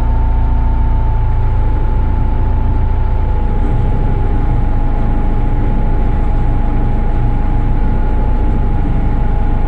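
Caterpillar IT-24 loader's diesel engine running steadily under light hydraulic work, with one constant high whine over the low engine rumble.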